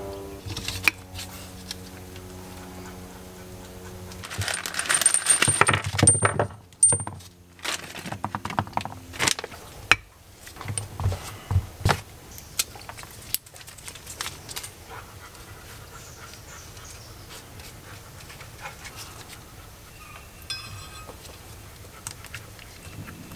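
Small metal brake caliper parts clinking and being handled, with a louder few seconds of scraping and clattering about a third of the way in.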